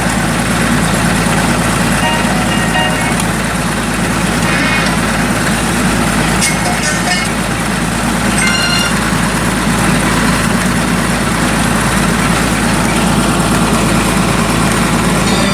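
Bedford truck running on the road: a steady, loud engine and road noise, with a few short high tones here and there.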